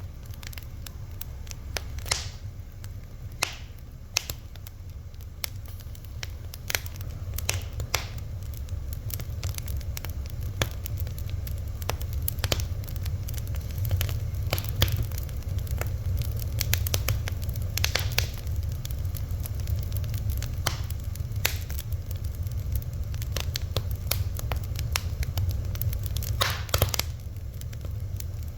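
Wood fire crackling: irregular sharp pops and snaps over a steady low rumble, with a quick cluster of louder pops near the end.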